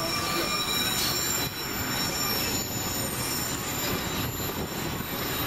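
Narrow-gauge train running along its track, a steady rumble of wheels on rail with high, steady squealing tones from the steel wheels.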